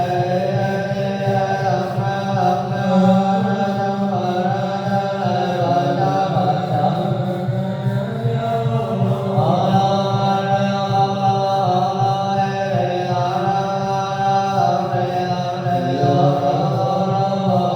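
Vietnamese Buddhist chanting, voices holding long sustained notes that move slowly from pitch to pitch.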